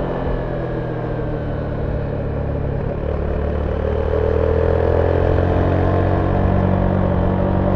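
Zontes 310V motorcycle's single-cylinder engine running on its stock exhaust, heard on board while riding at a steady pace. The pitch sags slightly, then the engine pulls again and rises a little about halfway through as the throttle opens.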